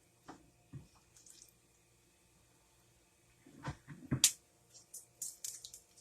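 Kitchen handling sounds: two soft knocks near the start, then a short clatter ending in a sharp click about four seconds in, followed by light ticking and scraping.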